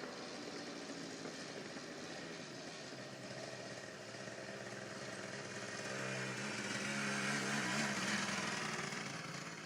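Yamaha 175 dirt bike engine running as the bike is ridden, its note growing louder about six seconds in and peaking near the end.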